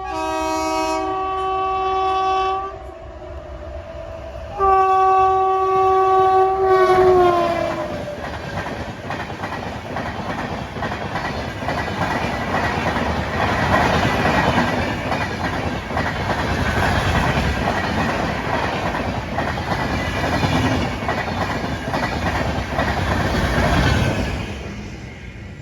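Train horn sounding two long chord blasts; the second one slides down in pitch as the locomotive passes. Then the train rolls past with steady rumbling and wheel clatter over the rail joints, fading near the end.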